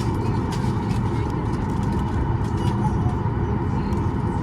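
Steady low rumble in the cabin of a Boeing 737 MAX 9 on the ground before takeoff, its CFM LEAP-1B engines running, with a few faint steady tones over it.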